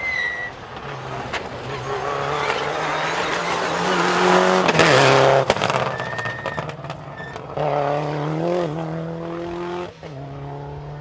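Rally car under hard acceleration as it passes close by. The engine note climbs to a loud peak about halfway through, with tyre noise, then drops at an upshift and climbs again as the car pulls away, with another gear change near the end.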